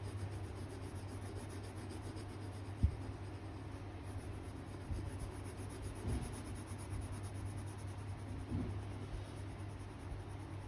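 Pencil strokes scratching on paper over a steady low hum, with a sharp tap about three seconds in.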